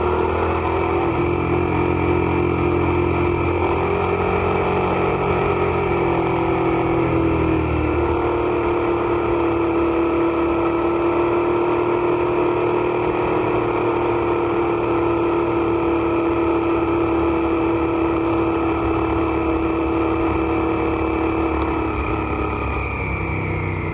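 Suzuki SV650's 645 cc V-twin engine running hard at nearly constant revs on track. The pitch wavers a little in the first several seconds, then holds steady for a long stretch before easing slightly near the end.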